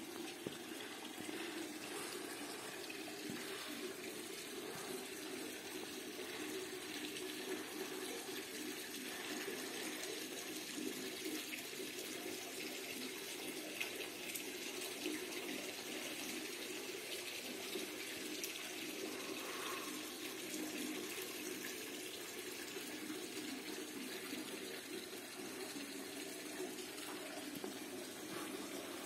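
Water running steadily from a çeşme, a Turkish village drinking fountain, pouring from its spout into the basin.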